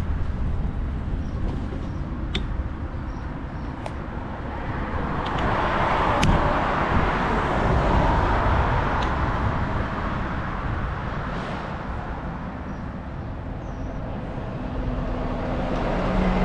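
Riding noise of a bicycle outdoors: a steady low rumble of wind on the microphone and rolling tyres, with a few sharp clicks. A louder rushing noise swells about five seconds in and fades by about ten.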